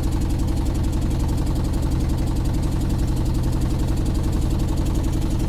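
Motorboat engine running steadily at close range, a fast, even low throb.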